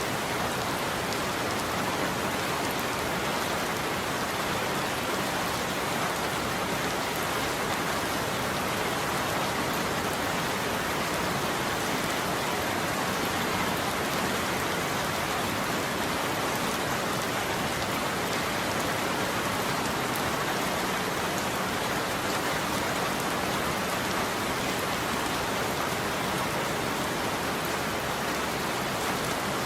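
Steady heavy rain falling on a roof: an even, unbroken hiss of drops, with no thunder in this stretch.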